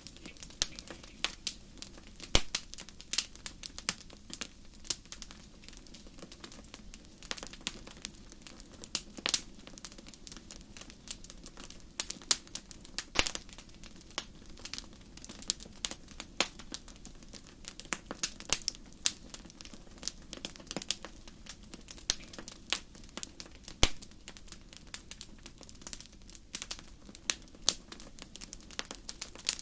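Fire crackling in a fireplace: a steady run of irregular sharp pops and snaps over a soft low rumble of burning.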